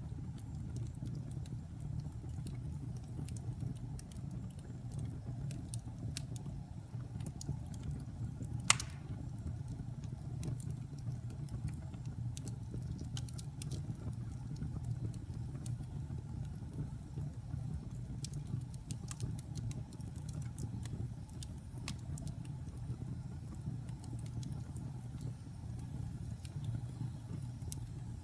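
Fire burning in a fireplace: a steady low rumble with scattered crackles throughout, and one sharp, loud pop about nine seconds in.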